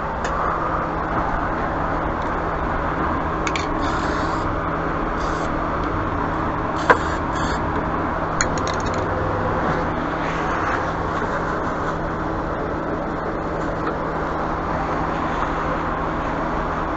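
Steady low mechanical hum over background noise, with a few brief light scrapes and one sharp click about seven seconds in.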